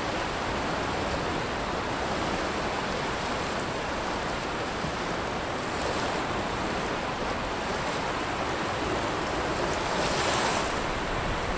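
Ocean surf washing onto a pebble beach: a steady wash of waves that swells once near the end.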